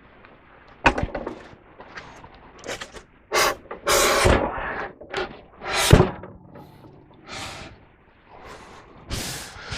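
Irregular knocks, clunks and short scrapes from hands-on handling of wood and gear, with the loudest thump about six seconds in; no engine or saw is running.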